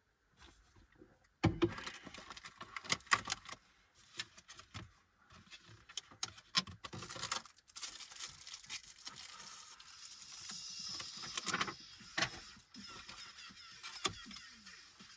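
Close handling noises at a small table: crinkling of plastic snack packaging with irregular clicks and taps, the loudest sharp clicks about a second and a half and three seconds in.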